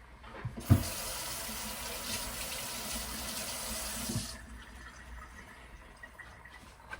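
Kitchen tap running water into a sink for about three and a half seconds, then shut off. A sharp knock comes just as it starts.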